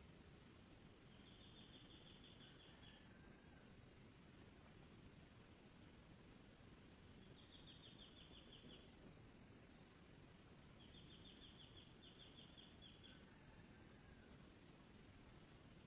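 Steady, high-pitched chorus of insects such as crickets, with three short rapid trills breaking in over it, about one every four to five seconds.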